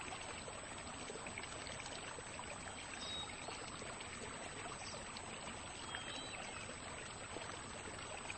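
Steady trickle of flowing water, with a few faint short high chirps over it.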